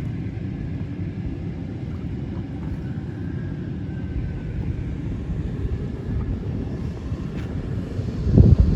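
Wind buffeting an outdoor microphone: a loud, uneven low rumble that swells to its loudest near the end and cuts off abruptly.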